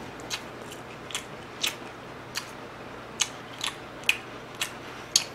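Close-miked chewing of a mouthful of fried chicken burger, with the whole chicken patty and vegetables giving sharp, crisp crunches roughly every half second.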